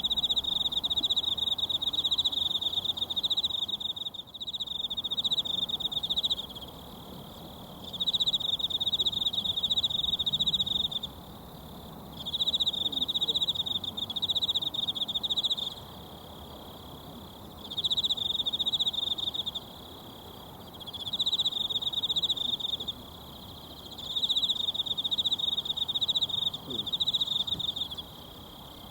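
An insect trilling in repeated runs of a few seconds each, about six times, with short pauses between, over the faint steady rush of a mountain stream.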